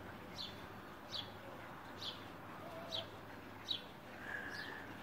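A small bird repeating a short, high, falling chirp at a steady pace, about once a second.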